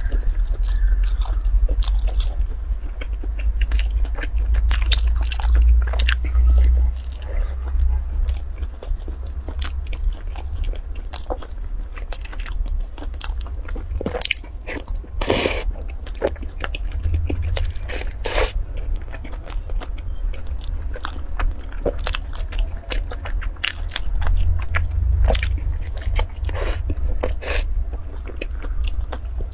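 Close-miked eating: repeated bites and chewing, with sharp crunches and clicks scattered throughout over a low rumble, the strongest crunch about halfway.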